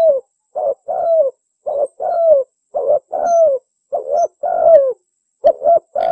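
Spotted dove (tekukur) cooing in repeated phrases about once a second, each a short coo followed by a longer coo that falls in pitch at its end.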